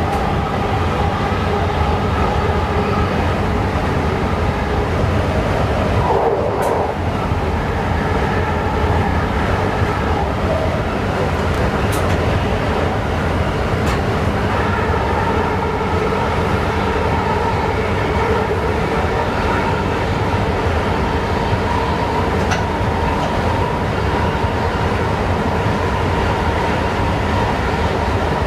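Passenger train running, heard from inside the driver's cab: a steady rumble with several held pitched tones from the drive, and a few sharp clicks.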